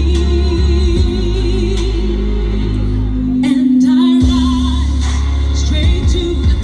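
A woman singing a ballad live over a loud backing track, holding long notes with vibrato.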